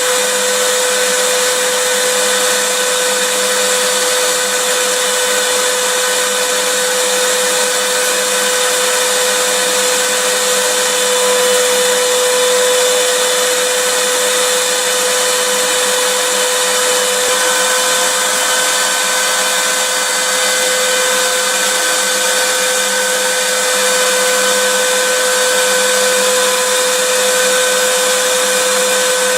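Vacuum cleaner running continuously: an even, unchanging rush of air with a steady motor whine.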